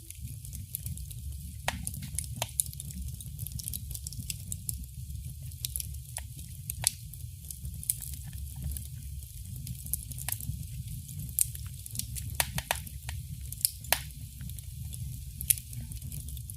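Wood fire crackling in a fireplace: sharp pops and snaps at irregular moments over a steady low rumble.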